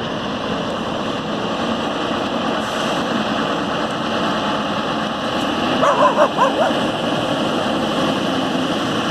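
Scania R500 V8 truck engine running steadily, with a dog barking several times about six seconds in.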